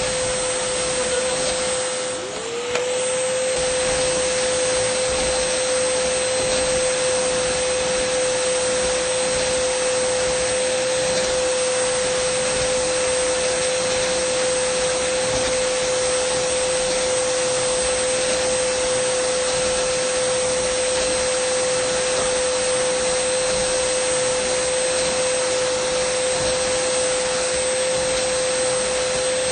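Dyson vacuum cleaner running steadily: a steady whine over an even rush of air. About two seconds in, the sound briefly dips and the whine slides back up to pitch.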